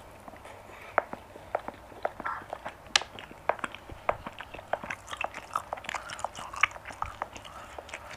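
Close-miked mouth sounds of a person chewing a bite of soft, fatty grilled marinated goat meat: irregular clicks and smacks, several a second, the loudest about three seconds in.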